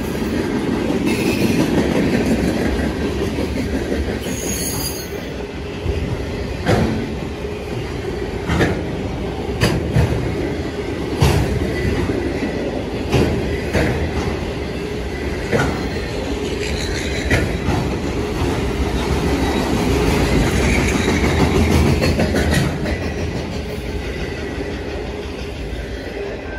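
Freight cars rolling past on steel rails: a steady rumble of wheels with repeated sharp clacks as wheels cross rail joints, and a brief high squeal about four seconds in. The rumble fades near the end as the last cars go by.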